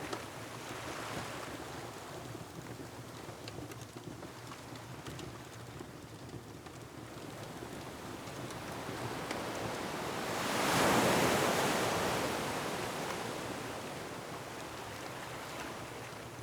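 Ocean surf washing against a rocky shore, swelling to one louder wave crash about ten seconds in and then slowly ebbing. Faint, scattered crackles of a wood fire sound over the surf.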